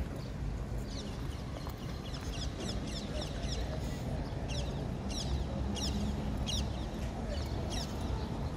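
Birds calling overhead: many short, high calls that drop quickly in pitch, coming in quick runs from about a second in. Under them runs a steady low city rumble.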